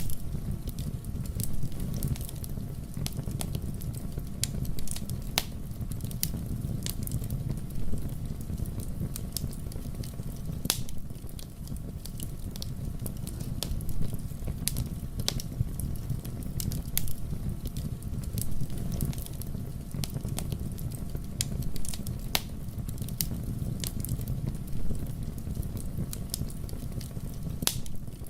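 Fire burning in a fireplace: a steady low rumble with frequent sharp, irregular crackles and pops.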